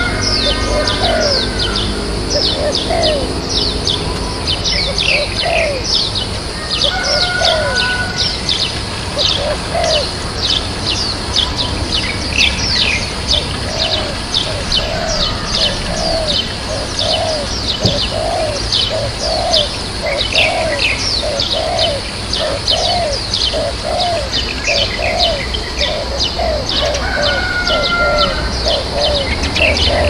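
Small birds chirping in quick, high, falling notes, several a second, with a lower repeated call joining in for a while in the middle, over a steady low rumble.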